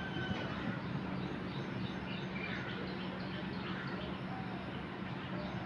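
Birds chirping faintly and intermittently over a steady low hum and outdoor background noise.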